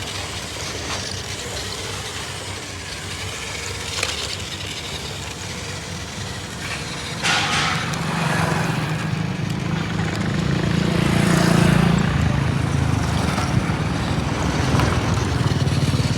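Remote-control toy tractor running with its motor humming. About four seconds in there is a sharp knock, and from about seven seconds it runs louder, with a steadier hum for several seconds.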